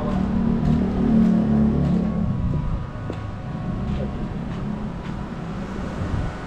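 A motor vehicle's engine passing close by on the street, loudest in the first couple of seconds and then fading.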